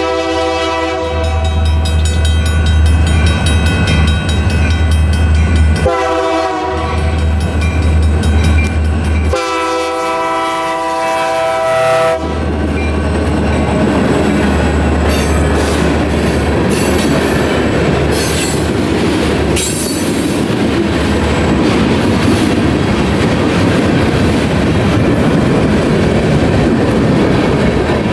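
A train passing a grade crossing: the locomotive horn sounds at the start, briefly about six seconds in, and again for about two seconds around ten seconds in, over the diesel locomotive's deep engine rumble. From about twelve seconds on come the steady rolling and clickety-clack of the cars over the rails.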